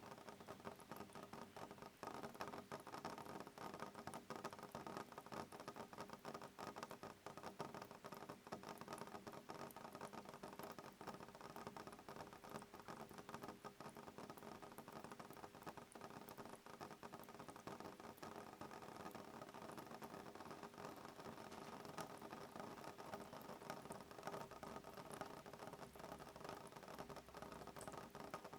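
Soft rain pattering on a window pane: a steady, faint, dense tapping of many small drops.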